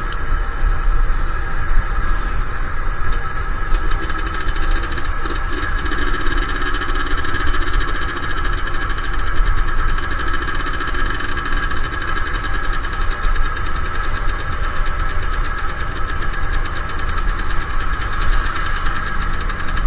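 Suzuki Satria two-stroke single-cylinder motorcycle engine running steadily while riding at an even pace, with rumble from wind on the microphone.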